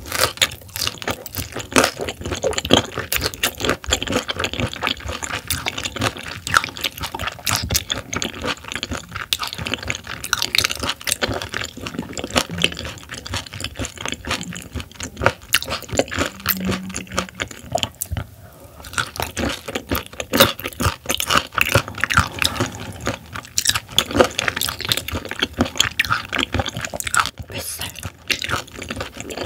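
Close-miked chewing of raw silver pomfret (butterfish) sashimi: a dense, continuous run of wet mouth clicks.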